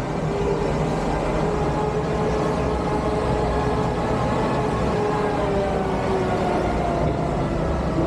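Motor vehicle engine running steadily under road and wind noise, its pitch slowly falling across the few seconds.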